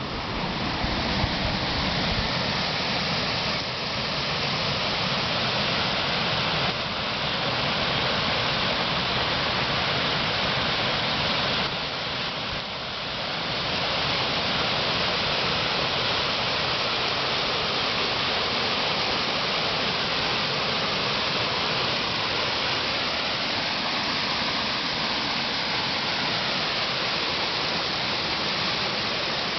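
Steady rushing of fast-flowing water from a stream or river swollen by heavy rain.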